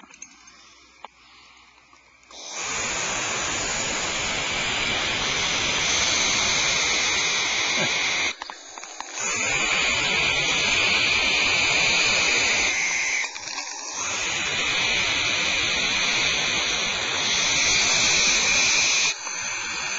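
Barn owls screaming: long, harsh, hissing screeches from more than one owl, in three long stretches with short breaks between, after a brief quiet start.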